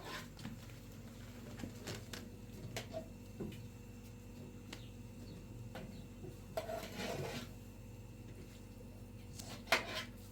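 Scattered light knocks and clinks of pots and utensils being handled, with a longer rustling clatter a little past the middle and a sharper knock near the end, over a faint steady low hum.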